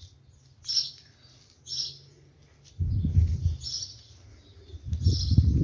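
A few short high bird chirps, about a second apart. Two spells of low rumbling noise, the loudest sounds here, come about three and five seconds in.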